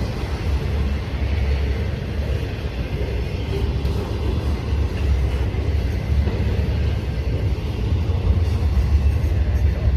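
Long CPKC freight train rolling past with a steady low rumble.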